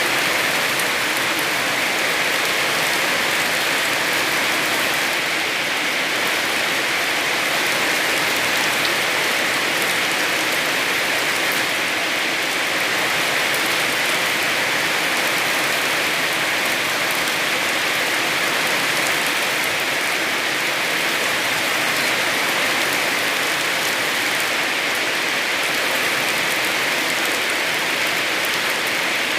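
Heavy rain falling steadily, an even, unbroken hiss with no single drops or strikes standing out.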